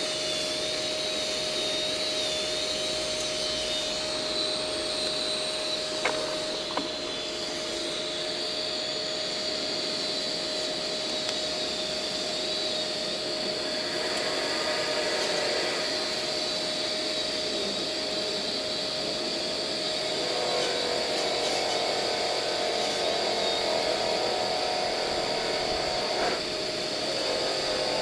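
A steady motor whine over a rushing, hissing noise, like a shop vacuum or power tool running continuously. The pitch shifts a little about twenty seconds in, and two sharp clicks come about six seconds in.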